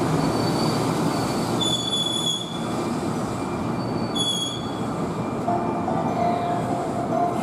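Keihan Main Line electric train running along the platform, with two short high-pitched wheel squeals and a lower steady tone coming in near the end.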